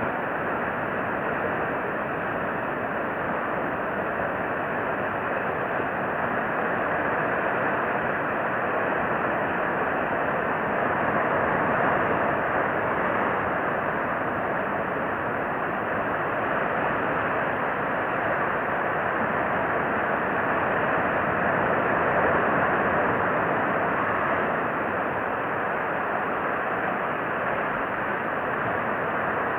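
Steady rushing background noise that swells and eases slowly, with no distinct events.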